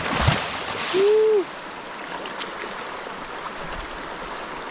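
A person plunging into a river pool: a sudden splash, a short voiced cry about a second in, then the steady rush of the stream.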